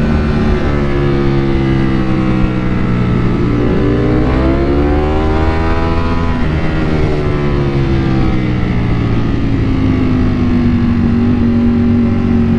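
Ducati Panigale V4's V4 engine running under way, its note dipping and then rising again a few seconds in as the throttle is rolled on, before easing back to a steady, slightly falling pitch.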